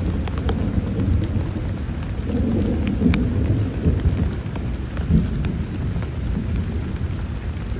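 Heavy rain falling steadily, with single drops ticking sharply on a nearby surface, under a low rumble of thunder that swells a little over two seconds in.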